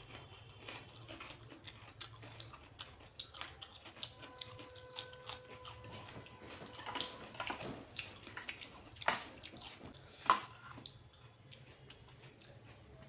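Close-miked eating sounds: a person chewing a mouthful of rice and mutton curry, with wet mouth clicks and smacks. A sharp click comes about ten seconds in and is the loudest sound.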